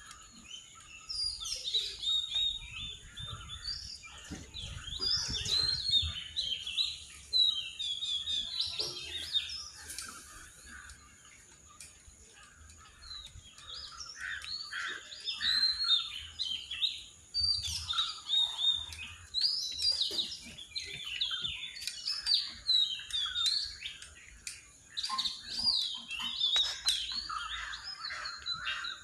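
Several birds singing and chirping together in quick, short notes, with a quieter lull about halfway through. A faint steady high tone runs underneath.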